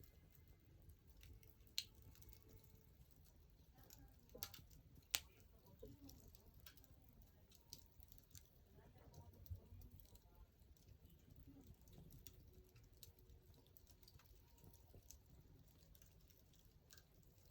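Wood fire crackling faintly, with scattered sharp pops, the loudest about two and five seconds in, over a low rumble.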